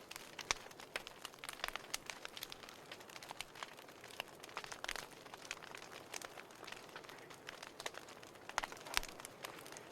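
Burning firewood crackling and popping: many sharp, irregular pops over a steady low hiss of flames, with louder snaps about half a second in and near the end.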